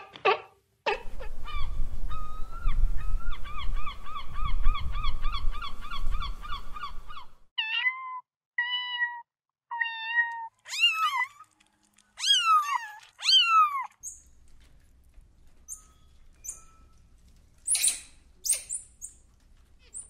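Kitten mewing: a few short mews, then louder, longer ones that rise and fall in pitch. Before them, a sea lion barks briefly and a long warbling trill with a fast wobble runs for several seconds. Near the end come a squirrel monkey's short, high chirps.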